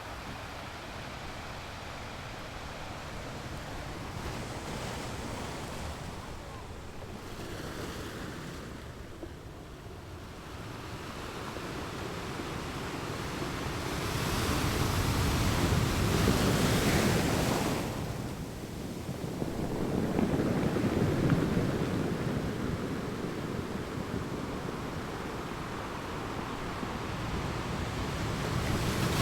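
Gentle ocean waves washing onto a sandy beach: a steady hiss of surf that swells up twice in the second half and once more near the end.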